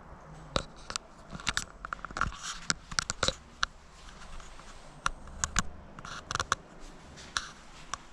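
A series of irregular sharp clicks and taps, some in quick clusters, over a faint steady background.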